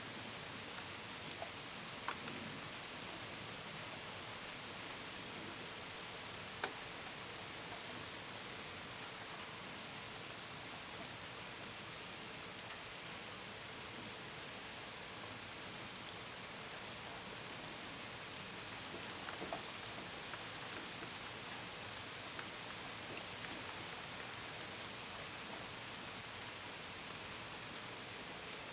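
Steady gentle rain, with a few louder drips ticking against a window and gutters. A high cricket chirping pulses evenly underneath the whole time.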